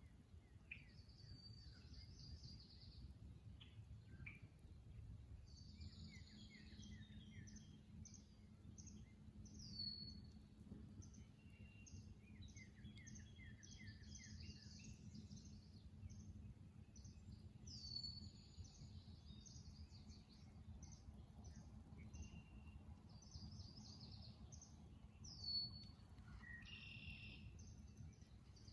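Faint mixed birdsong from several birds, short calls and trills overlapping throughout, over a low steady rumble.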